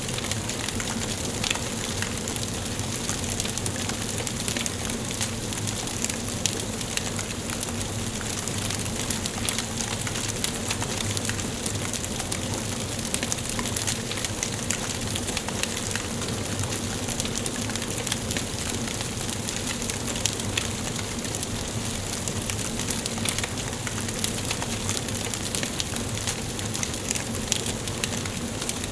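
Wood fire burning in a fireplace: a steady hiss with dense, irregular crackles and small pops throughout.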